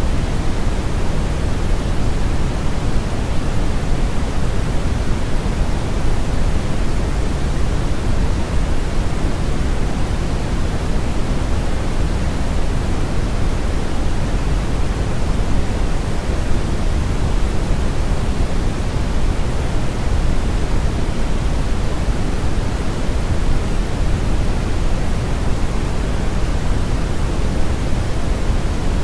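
Brown noise: a steady, unchanging rumbling hiss, heaviest in the low end with the highs rolled off, like a strong river current or wind.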